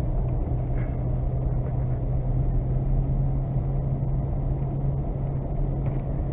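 Vehicle being driven: steady engine and road rumble with a constant low hum.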